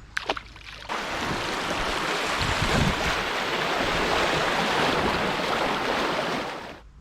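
Steady rushing of water, starting about a second in and fading out near the end.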